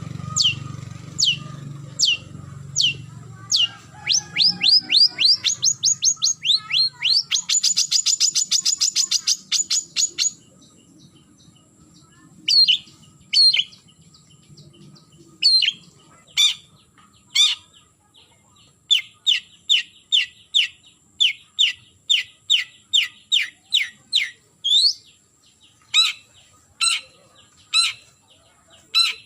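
Long-tailed shrike (cendet) giving its challenge call to a rival: repeated sharp, downward-sweeping notes. About four seconds in they quicken into a fast rattling trill, then break off. After a pause the bird resumes with series of sharp notes at about two a second.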